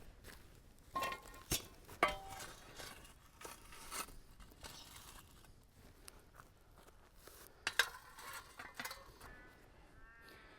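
Metal camp-cooking gear being handled: sharp clanks and clinks with a short ring, a cluster of three about one to two seconds in and another about eight seconds in.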